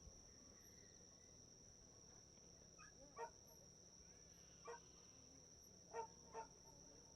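Quiet night with a steady high-pitched insect drone, broken by four short honk-like calls in the second half.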